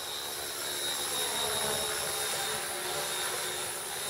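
Radio-controlled electric helicopter flying, its motor and rotor giving a steady whine.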